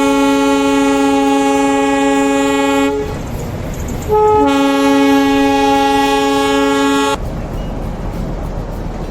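Darjeeling Himalayan Railway toy train sounding its horn: two long, steady, loud blasts of about three seconds each, a second apart. Each blast cuts off sharply, and the train's running rumble carries on underneath.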